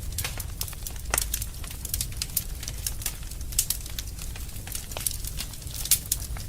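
Fire burning in a fireplace: irregular sharp pops and crackles over a steady low rumble of the flames, with a louder pop about a second in and another near the end.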